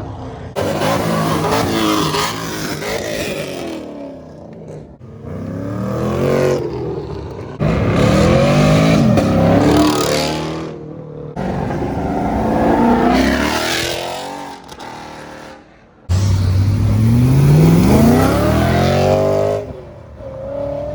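Several cars accelerating hard one after another. Each engine revs up in a rising pitch as the car pulls away. The sound changes abruptly several times, as one car's run gives way to the next.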